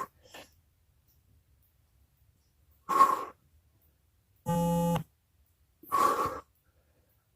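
A man breathing out hard in short forceful puffs, three times about three seconds apart, with each rep of a stomach exercise. A brief steady pitched tone, like a strained hum or grunt, comes between the second and third breaths.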